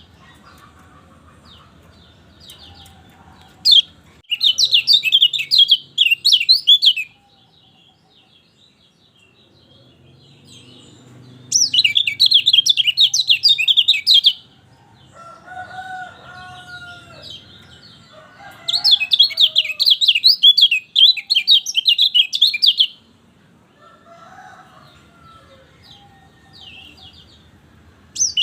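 Kecial kuning singing in three bursts of fast, high twittering song, each about three seconds long, with softer, lower calls in the pauses between them.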